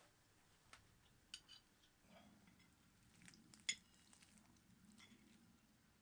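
Faint, scattered clinks of spoons and cutlery against dishes at a meal, the sharpest about three and a half seconds in.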